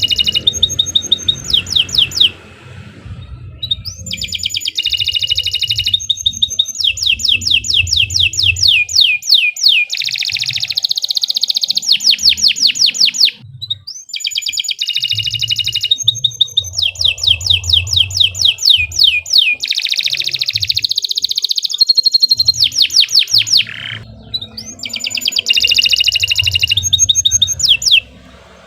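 Domestic canary singing long, loud song phrases of rapid trills and fast repeated notes, with short pauses about three seconds in, midway and about four seconds before the end.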